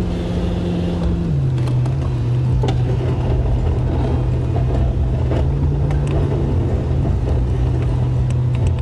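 Plow truck engine running steadily, heard from inside the cab, its pitch dropping a little about a second in and then holding, with scattered light clicks.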